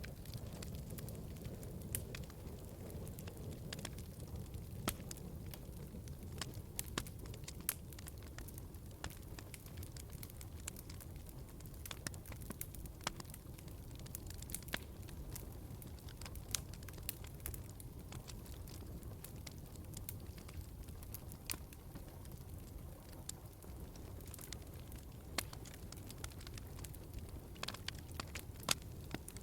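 Wood fire in a fireplace burning with a low rumble and irregular sharp crackles and pops.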